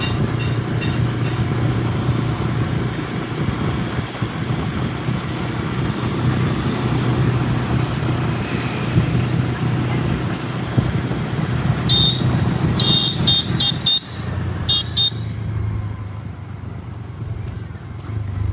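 A road vehicle's engine running steadily, with a cluster of short, high-pitched horn beeps about twelve to fifteen seconds in.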